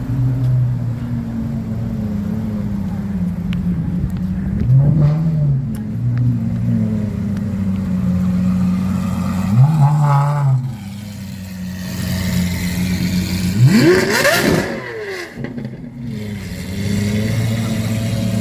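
Car engine running steadily, with short throttle blips about a third and halfway through and a sharp, quickly rising rev about three-quarters of the way in.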